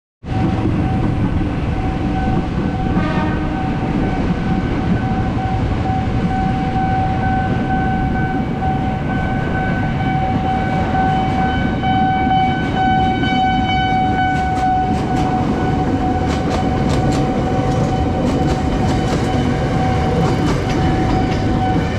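Train passing a railway level crossing: a heavy rumble with a steady high tone held over it, and rapid wheel clicks over the rail joints from about halfway.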